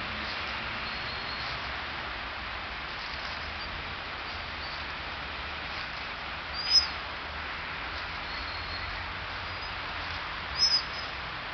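Small birds chirping: faint short high calls now and then, and two louder, sharp chirps, one about seven seconds in and a quick double one near the end, over a steady background hiss.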